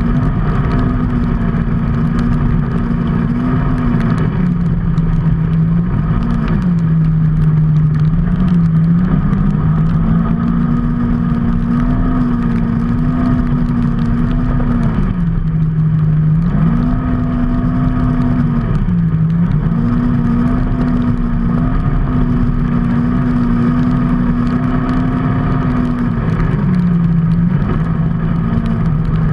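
A motor vehicle's engine running steadily, its pitch shifting back and forth between a higher and a lower level every few seconds as the engine speed changes, over continuous road and wind noise.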